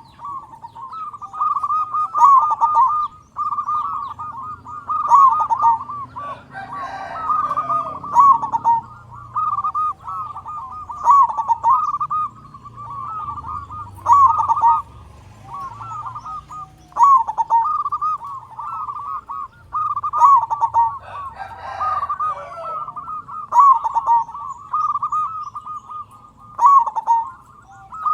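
Zebra dove (perkutut) cooing: a local bird in full song, giving rolling, trilled coo phrases over and over, a new phrase about every three seconds.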